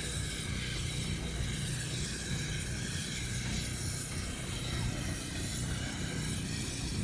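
Steady low engine hum with outdoor background noise, unchanging throughout.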